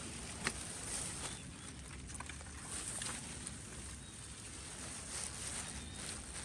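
Soft, steady outdoor background hiss with a few light clicks, the sharpest a single knock about half a second in.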